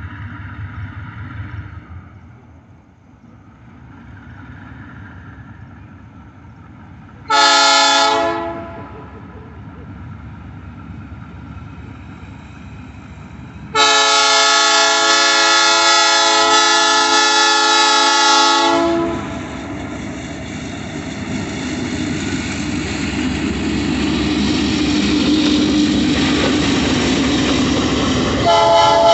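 Train air horn sounding a short blast, then a long blast of about five seconds, several notes at once. Afterwards the rumble and wheel noise of the passing train grow steadily louder, and the horn sounds again right at the end.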